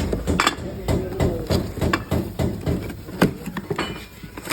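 A run of irregular sharp knocks and clatters, about two or three a second.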